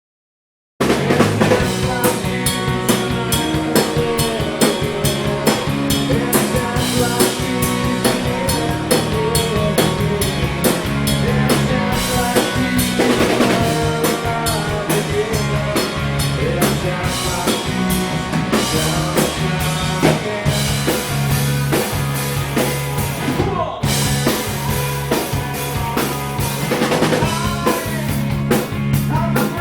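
Rock band playing live with a drum kit at a sound check, starting abruptly about a second in.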